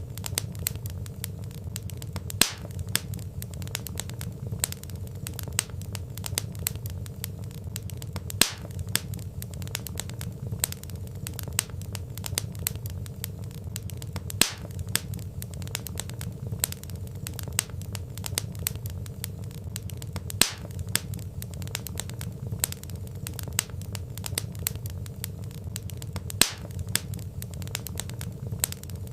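Wood fire crackling steadily: many small snaps and pops over a low rumble of burning logs, with a louder pop about every six seconds.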